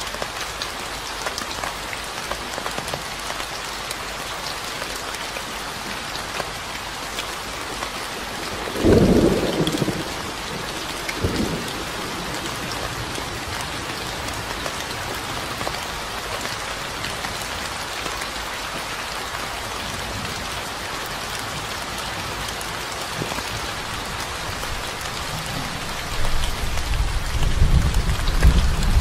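Steady rain pattering down, with a sharp clap of thunder about nine seconds in, a smaller one soon after, and a low rumble of thunder building near the end.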